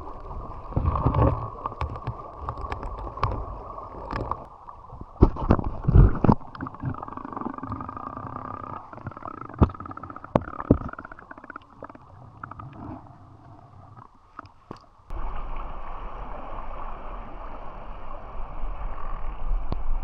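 Muffled rushing and gurgling river water with scattered knocks and clicks. About fifteen seconds in it changes suddenly to a steadier, brighter hiss.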